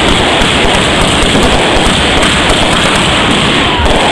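Fireworks barrage with a dense, continuous crackling of many small bursts, loud and steady throughout.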